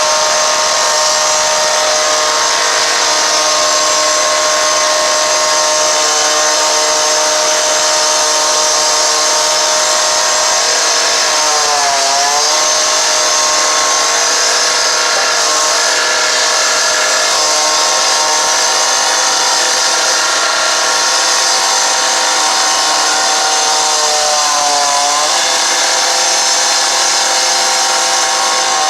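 A motor running steadily at high speed, its pitch dipping briefly and coming back twice, about twelve seconds in and again near twenty-five seconds.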